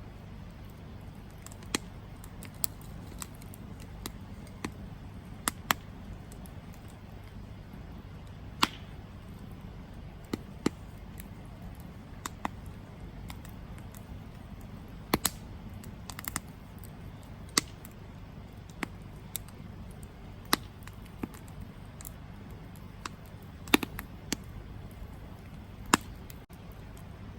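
Campfire burning: a steady low rush of flames with irregular sharp crackles and pops from the burning wood, some in quick pairs.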